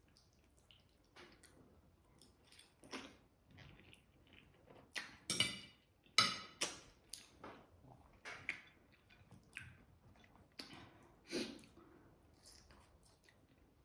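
A person chewing and eating food close to the microphone, with irregular wet mouth sounds; a louder cluster about halfway through.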